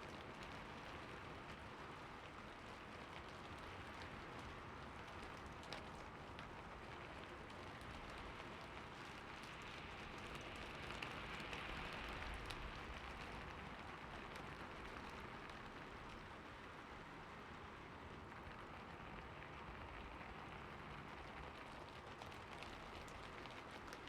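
Steady rain falling on a roof, an even hiss with scattered individual drop ticks, swelling a little about halfway through.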